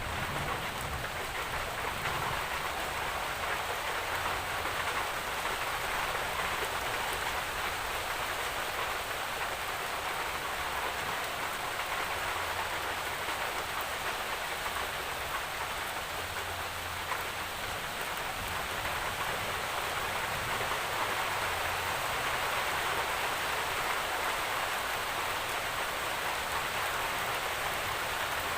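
Steady rain falling, a dense even hiss of many drops pattering on surfaces.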